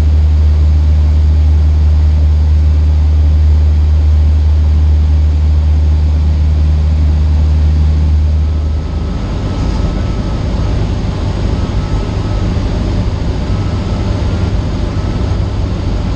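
Cessna 152's four-cylinder Lycoming piston engine and propeller droning steadily, heard inside the cockpit. About halfway through, the low drone drops a little and turns rougher and less even.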